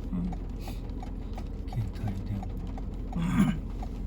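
Steady low rumble with a fast, even ticking running through it, about four or five ticks a second, and brief muffled voice sounds, the clearest a bit over three seconds in.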